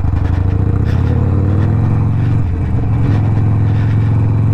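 Harley-Davidson Sportster Iron 1200's V-twin engine, Stage 1 tuned with a Two Brothers 2-into-1 exhaust, pulling away from a standstill on a hill, its pitch rising as it takes up speed. The note dips briefly about two and a half seconds in, then runs on steadily.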